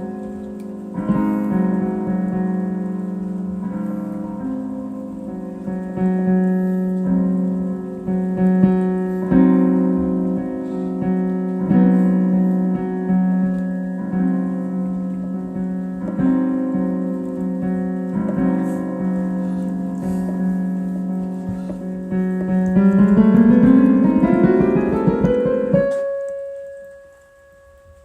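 Solo piano playing improvised slow chords over a sustained low note, a new chord struck every couple of seconds. Near the end a fast run climbs upward, the loudest part, then the sound dies away to one lingering high note.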